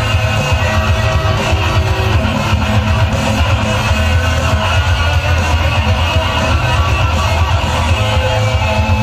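Music with guitar and a heavy bass, played loud through a large sound-system rig.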